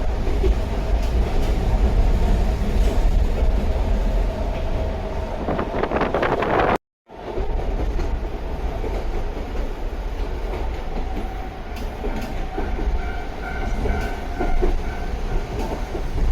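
Sangi Railway Hokusei Line 762 mm narrow-gauge electric train running, with a steady rumble and wheel noise and a whine from its nose-suspended traction motors. The sound cuts out for a moment about seven seconds in.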